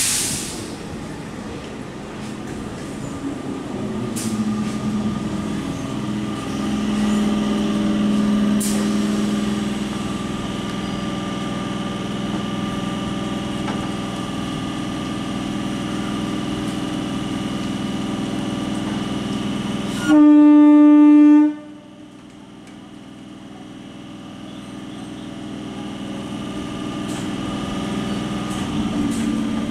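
Electric multiple-unit (EMU) local train standing at the platform: a brief hiss of air at the start, then a steady machinery hum with several held tones. About two-thirds of the way in comes one loud horn blast lasting about a second and a half, the signal of departure. The hum then drops and a low rumble builds as the train starts to pull away.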